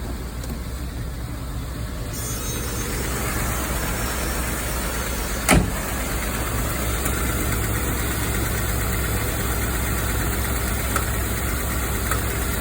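1984 Rolls-Royce Silver Spirit's 6.75-litre V8 idling steadily just after a cold start. It grows slightly louder over the first few seconds, and one sharp click is heard about five and a half seconds in.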